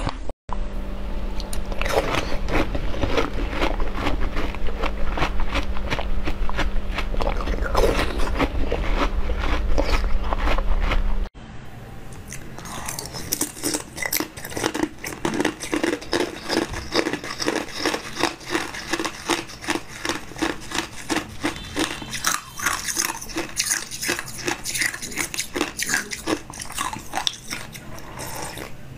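Close-miked eating: crunchy biting and chewing with dense clicking. About eleven seconds in it drops to quieter, rhythmic chewing and mouth sounds.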